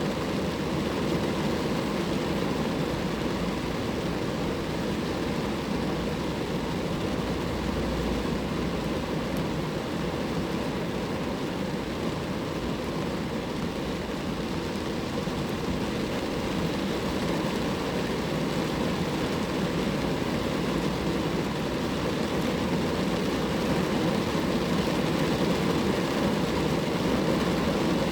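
Rain falling steadily on a car, an even, dense noise with no letup that grows slightly louder near the end.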